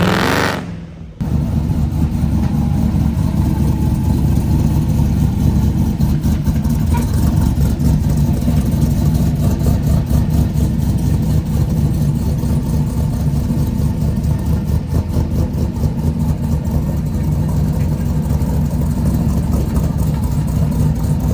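Car engine running steadily with a deep low rumble, after a brief loud sound that cuts out about a second in.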